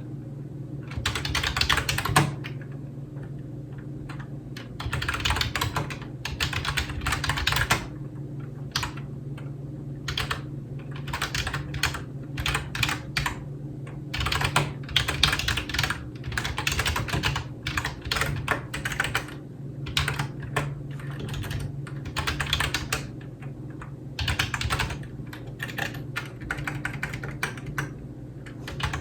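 Typing on a computer keyboard: rapid clattering keystrokes in bursts of a second or two, with short pauses between them. A steady low hum runs underneath.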